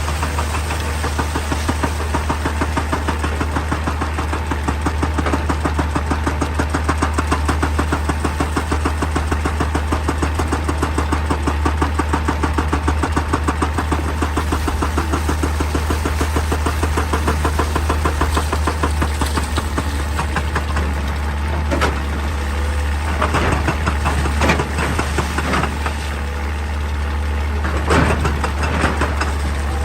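Excavator's diesel engine running steadily with a rapid, even pulsing, with a few sharp knocks from rock or the bucket near the end.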